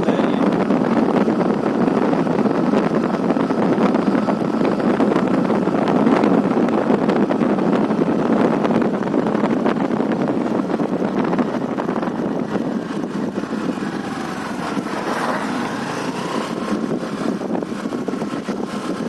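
Steady rumble of a moving vehicle with wind noise on the microphone.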